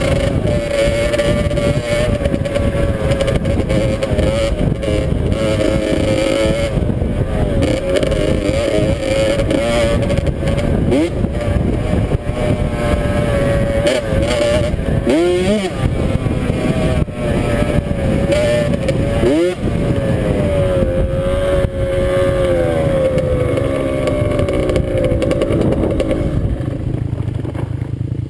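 Dirt bike engine running under way while riding, its pitch wavering with the throttle, with quick sharp revs about fifteen and nineteen seconds in.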